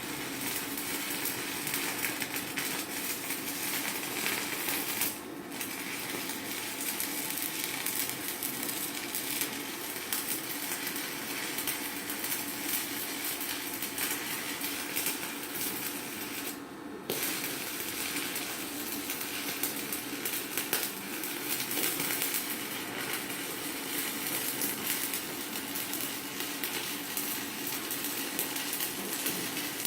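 Stick-welding arc from a Chinshui 160ARC inverter welder burning a 4.0 mm electrode: a steady, dense crackle and sizzle, briefly dropping twice, about five and seventeen seconds in.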